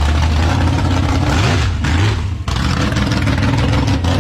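A gasser drag car's engine running loud and rough through an open exhaust, its throttle blipped so the pitch rises and falls around the middle, with a brief drop in level about halfway through.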